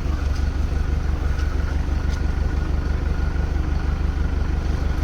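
Tractor engine running steadily at idle, a low, even rumble.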